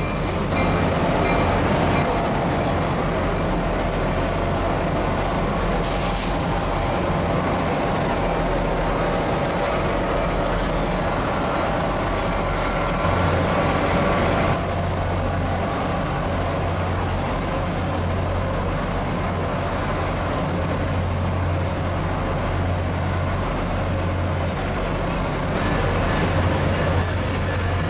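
NJ Transit commuter train running through the terminal yard, its locomotive engine giving a steady low hum. A short hiss comes about six seconds in.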